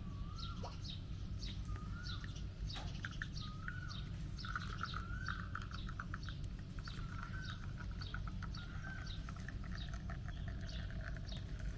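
Birds chirping: one short high call repeating about twice a second, with a few wavering warbled calls over a steady low rumble.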